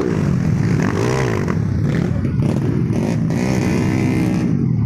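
Trail motorcycle engine revving under load on a steep dirt hill climb, its pitch rising and falling as the throttle is worked.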